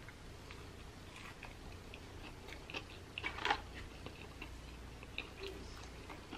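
A mouthful of Burger King Ch'King hand-breaded fried chicken sandwich being chewed: faint crunching crackles, thickest about three seconds in.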